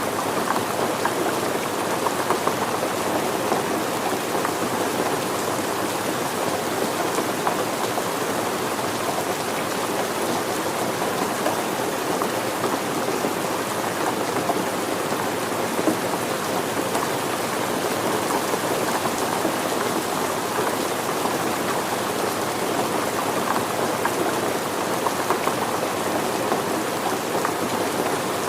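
Steady rain falling on surfaces, a dense even patter of many drops with no lulls.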